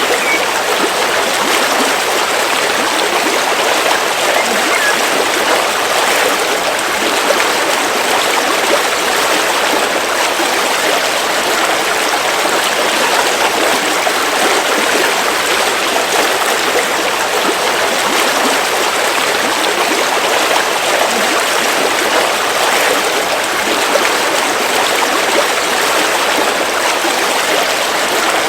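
A river flowing steadily over stones: a continuous, even rush of water.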